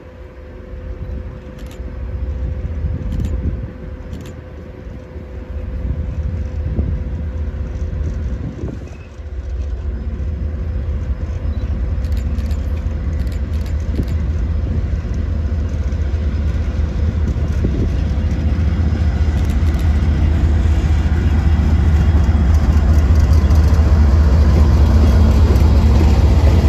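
Diesel locomotives of a Norfolk Southern train approaching, a deep rumble that grows steadily louder.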